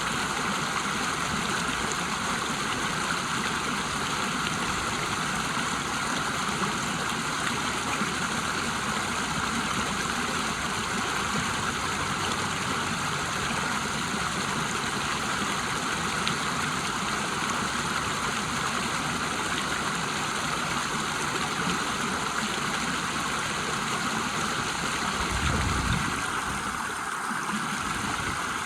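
River water rushing and splashing over a small waterfall, a steady even roar of flowing water.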